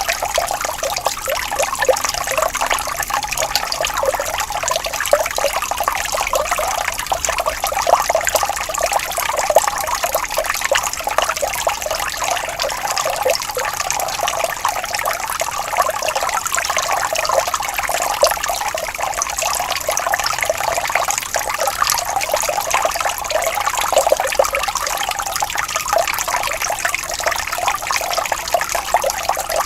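Water flowing gently and steadily, a continuous trickle and babble.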